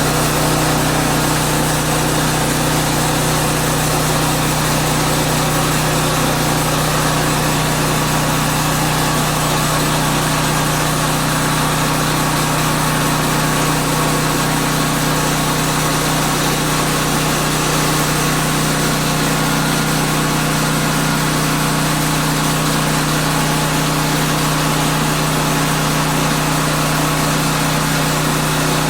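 Woodland Mills portable bandsaw sawmill's gasoline engine running steadily at an even pitch.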